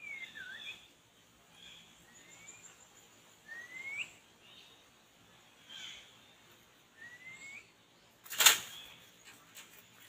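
Songbird calls: short single whistled notes that rise in pitch, spaced a second or more apart. One loud sharp snap comes near the end.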